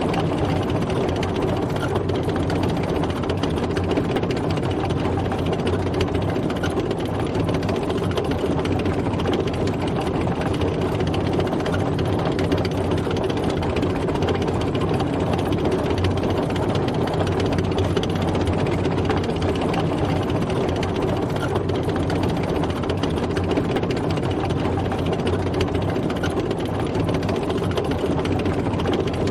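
Tank driving: a heavy engine running with the clatter of tracks, steady throughout.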